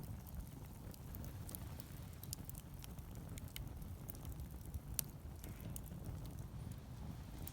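Wood fire crackling, with scattered sharp pops and one louder pop about five seconds in, over a low steady rumble.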